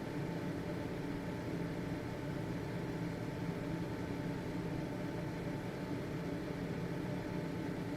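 Household ventilation fan running steadily: an even motor hum with a faint whir of air.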